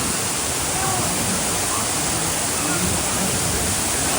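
Steady rush of falling water from a ride-scene waterfall, with faint voices of passengers under it.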